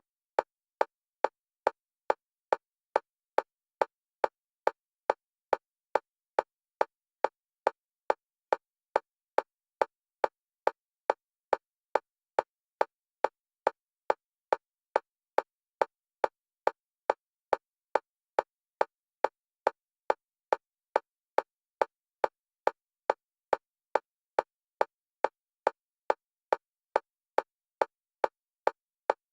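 Electronic metronome clicks of a single pitch, evenly spaced at about two a second and alternating between left and right channels for EMDR bilateral stimulation.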